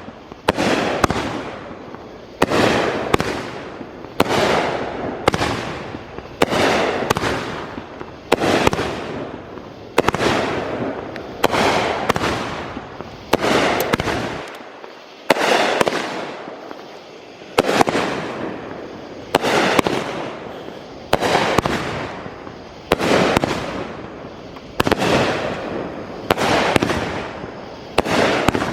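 A multi-shot consumer firework cake firing shot after shot, a sharp bang about every second or so, each trailing off over about a second, with a brief lull partway through.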